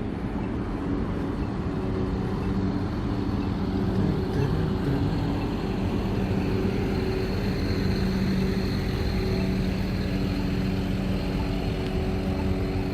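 Street traffic: a motor vehicle's engine hums steadily over a low rumble of road noise, growing a little stronger partway through.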